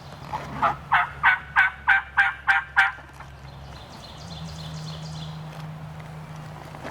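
A hunter's turkey call sounding a hen yelp series: about nine evenly spaced yelps, roughly three a second, lasting a little under three seconds.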